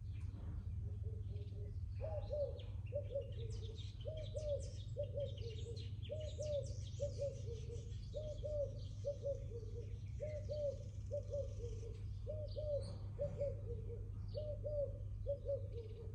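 A dove cooing over and over, a short coo phrase about once a second starting a couple of seconds in, with smaller birds chirping and twittering higher up. A steady low hum lies beneath.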